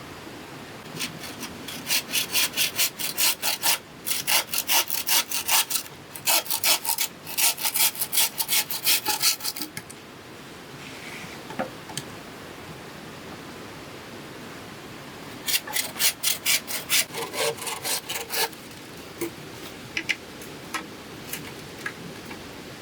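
Hand saw cutting through bamboo in quick, rhythmic back-and-forth strokes, in two runs with a pause between them.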